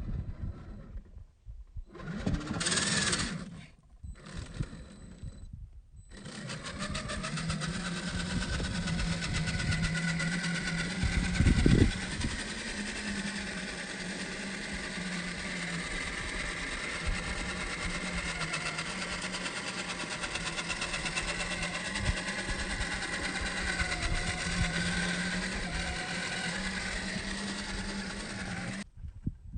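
1/10-scale RC rock crawler's electric motor and geared drivetrain running steadily with a low hum and a fast, even whir. There is a loud thump about twelve seconds in, and only short broken snatches of sound in the first few seconds.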